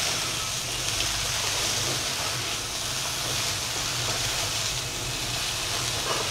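Sauced fried cauliflower (gobi manchurian) sizzling steadily in a hot kadai as a spatula stirs and tosses it, with a low steady hum underneath.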